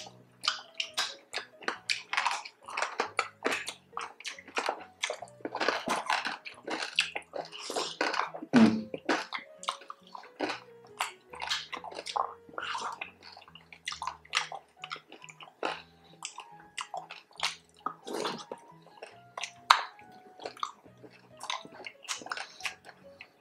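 Close-miked chewing of crispy pork belly: irregular crunches of crackling skin mixed with wet mouth sounds, one louder crunch about eight seconds in. Faint background music underneath.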